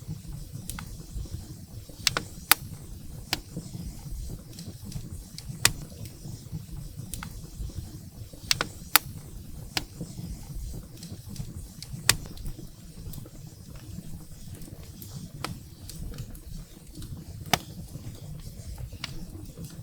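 Wood fire burning in a fireplace: a steady low rumble of flames with irregular sharp crackles and pops from the burning firewood, a few louder snaps standing out.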